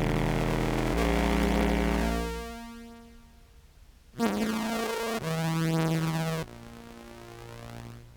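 Low contrabass clarinet notes played one after another through an octave pedal and a pitch-tracking synth pedal, coming out as sustained synth-like tones. In this sub-bass range the synth does not track cleanly, so one note near the middle starts with a wavering, bending pitch instead of a clean synth sound.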